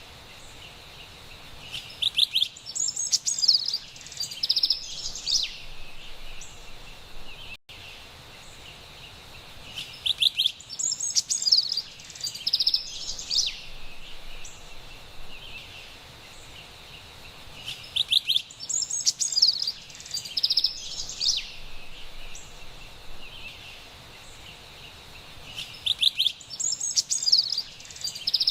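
Carolina wren singing: a loud, high song phrase of rapid trilled notes, given four times about every eight seconds and nearly the same each time, over a steady faint high hiss.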